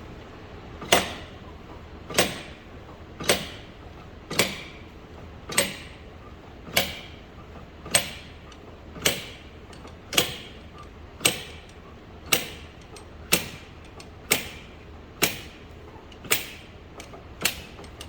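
Slide-hammer injector puller striking about once a second, a long run of sharp metal knocks, working a seized diesel injector out of an Audi SQ5 engine. The injector is stuck because its copper sealing washer blew out and combustion carbon built up around it.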